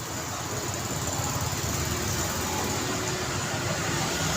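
Road traffic: a motor vehicle's engine rumbling close by over steady traffic noise, growing louder over the first second and then holding.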